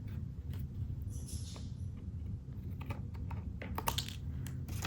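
Scissors snipping off the overhanging end of a paper strip: scattered small clicks of the blades, with a short rustle of paper about a second in.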